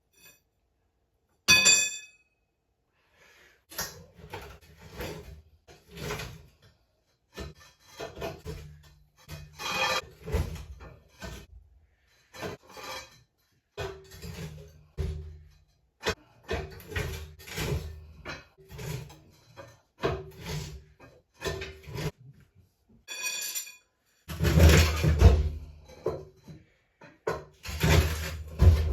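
A heavy metal lathe being shifted across the floor: irregular scraping and knocking, two short ringing metal clinks, and louder grinding drags near the end.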